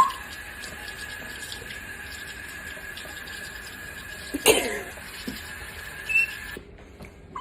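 A parrot gives one short, harsh, cough-like squawk about four and a half seconds in, then a brief high chirp, over a steady faint high-pitched hum that cuts off suddenly near the end.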